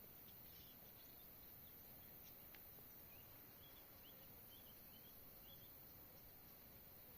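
Near silence: faint steady outdoor background hiss, with a few faint, short, high bird chirps a few seconds in.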